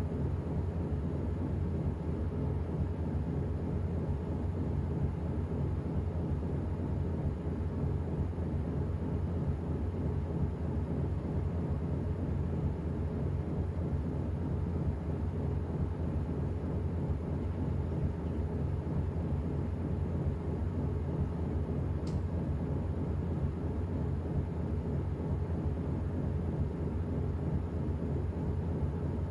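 Washing machine running steadily: an even low rumble and hum from the motor and drum. There is a single faint tick about two-thirds of the way through.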